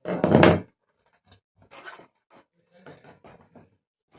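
Plastic parts of an electric room heater being handled and fitted together during reassembly: a short loud clatter at the start, then scattered faint clicks and rubbing.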